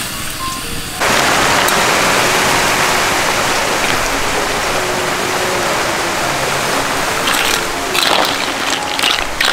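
Snails and sliced onion sizzling in a hot wok, a loud hiss that starts abruptly about a second in. Near the end, the clatter of shells being stirred against the wok.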